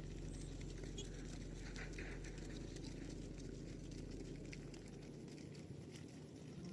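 Cattle hooves treading in mud: a soft, irregular patter with scattered small clicks, over a low steady hum that fades out about five seconds in.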